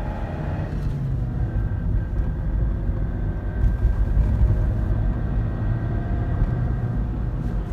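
Suzuki Swift 1.3 running under acceleration in third gear, heard from inside the cabin: a steady engine and road rumble with a faint whine that rises in pitch with engine speed.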